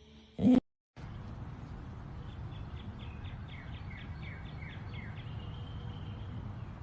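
A bird chirping, a quick run of short falling chirps about three a second, then one brief held note, over a steady low rumble of outdoor noise.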